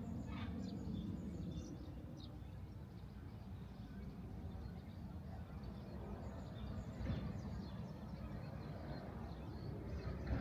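Outdoor ambience: a steady low rumble with small birds chirping in short scattered calls throughout.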